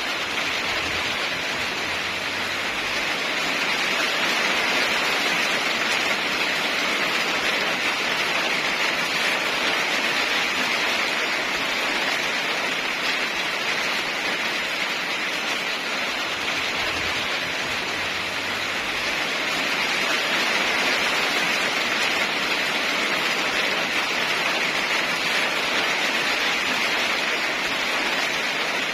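Heavy rain falling steadily in a dense, even hiss, swelling a little in loudness now and then.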